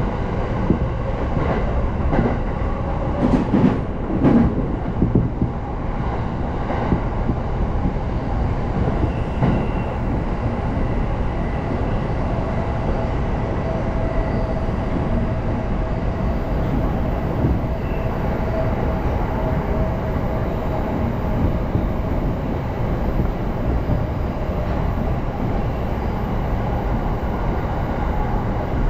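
Passenger train running, heard from inside the car: a steady rumble of wheels on the track, with a cluster of clicks over rail joints in the first few seconds and a faint steady whine through the middle.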